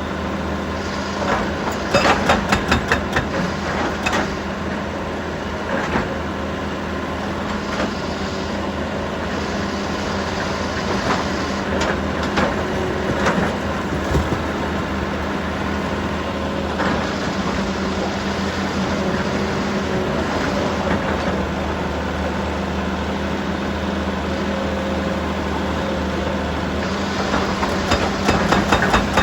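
Heavy diesel machinery running steadily, with scattered clanks and knocks and a fast run of rhythmic pulses near the end.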